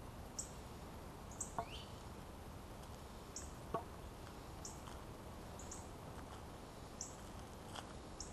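A bird chirping in the trees: short, high chirps repeating about once a second, unevenly spaced. A few soft taps, about two seconds apart, sound beneath them.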